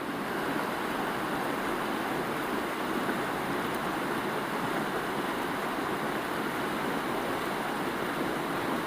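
River rapids: a steady rush of white water.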